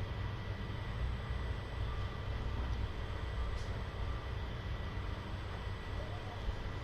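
Steady low rumble with a faint constant hum: room background noise, with no distinct events.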